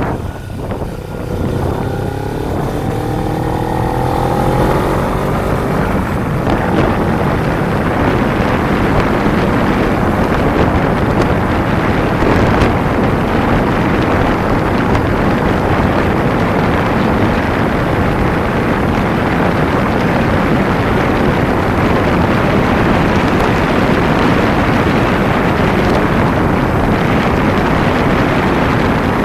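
Kawasaki Ninja 250 motorcycle engine rising in pitch as it accelerates over the first few seconds, then heavy, steady wind rush on the microphone at riding speed with the engine running underneath.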